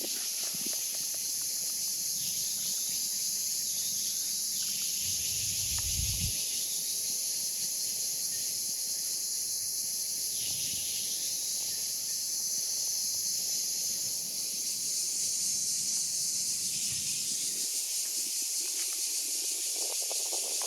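Cicada buzzing: a steady, high-pitched shrill drone that holds at one level throughout.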